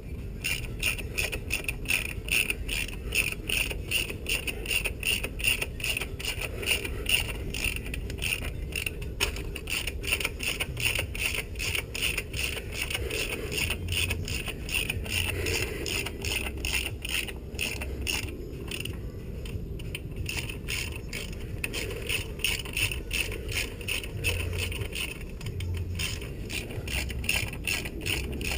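Hand socket ratchet clicking rapidly and continuously as bolts are turned, with a short break about two-thirds of the way through.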